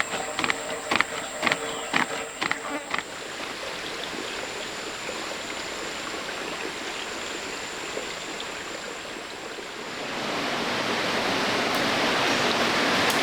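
Flowing stream water, growing louder about ten seconds in, with a steady high insect drone over it. The first three seconds hold a run of quick knocks, a few a second.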